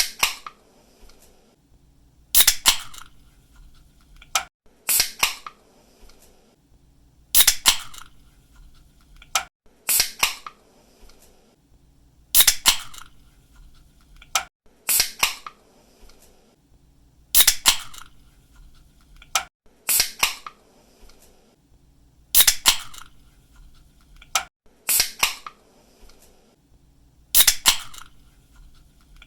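Aluminium drink can pull-tabs cracking open over and over, each a sharp snap followed by a short fizzing hiss of escaping carbonation, about every two and a half seconds.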